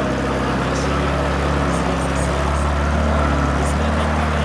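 GAZ-69's engine running steadily under load as the four-wheel-drive vehicle drives through deep mud and water.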